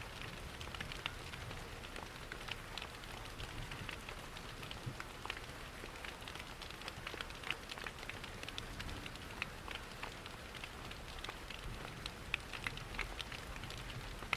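Steady rain mixed with the scattered pops and crackles of a fireplace wood fire, over a low steady rush.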